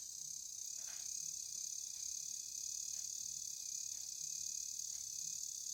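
Small DC drive motor and plastic gearbox of a toy line-follower car running steadily with a high-pitched whir and faint ticks about once a second, driven by shorting one side of its light sensor. The whir stops abruptly near the end.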